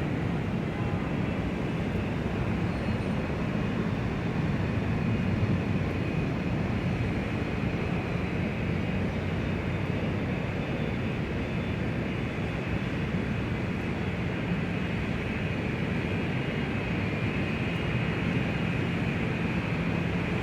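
Large airport ambience: a steady, even wash of low rumble and hiss with no distinct events standing out.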